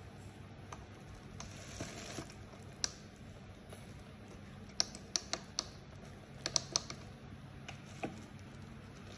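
Scattered sharp plastic clicks and taps from handling an LED PAR light, with small clusters of quick clicks around the middle and near the end, over a faint background hum.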